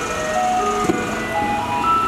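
Taiwanese garbage truck's loudspeaker playing its electronic chime melody, one clear note after another, over the truck's engine running. A short knock about a second in.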